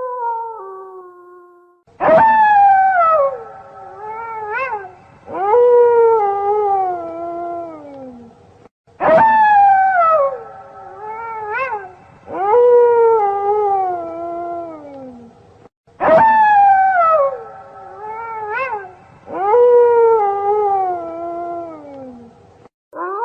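Wolves howling, several howls overlapping, each starting high and sliding down in pitch, with shorter rising-and-falling calls between them. The same roughly seven-second passage repeats three times, as a loop.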